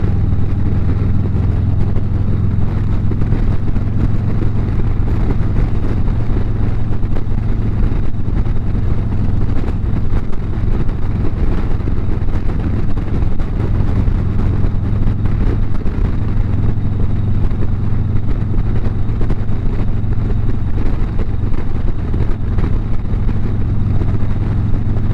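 Harley-Davidson motorcycle's V-twin engine running at a steady highway cruise, a low even drone with a rush of noise over it and no change in speed.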